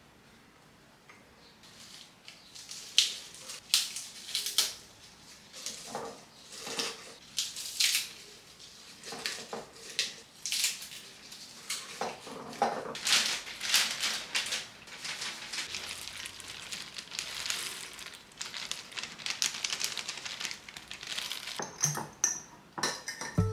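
Kitchenware being handled: a long run of irregular clinks, taps and scrapes of utensils against dishes, several a second.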